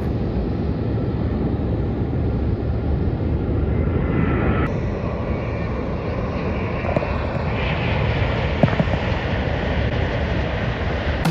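Jet airliner engines, a steady noise with a low rumble, with a higher whine coming in about four seconds in and again in the second half.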